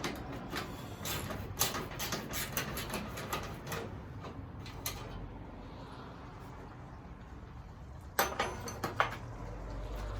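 Hand tools working bolts loose: a run of quick metal clicks and clinks, a quieter stretch in the middle, then another cluster of clicks near the end.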